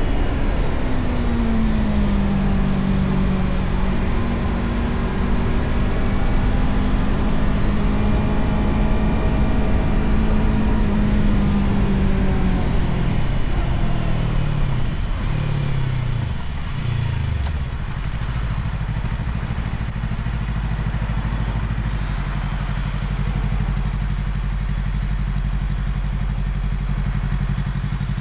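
Motorcycle engine under way with wind noise, holding a steady pitch. Then the revs fall in several quick drops as it slows down through the gears, and from about two-thirds of the way through it idles steadily.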